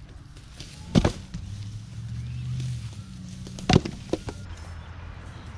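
Two sharp knocks about two and a half seconds apart, with a low engine hum running between them.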